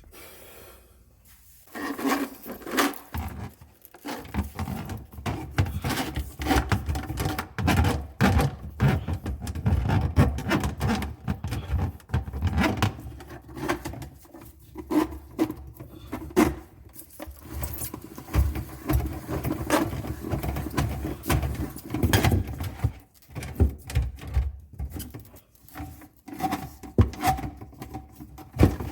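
Small hand drain snake being worked through a sink drain clogged with sludge: irregular rattling, knocking and scraping of the cable against the pipe and fittings, starting about a second and a half in.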